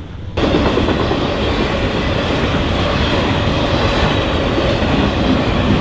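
Freight train cars rolling past at speed: a steady, loud rush of wheels on rail that starts suddenly about half a second in.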